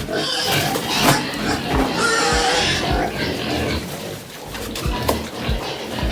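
Pigs squealing and grunting, crying for food at feeding time.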